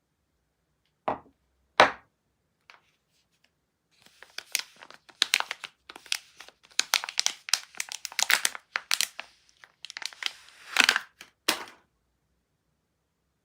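Soap packaging being unwrapped by hand: two sharp crackles, then about eight seconds of dense crinkling and crackling of the wrapper.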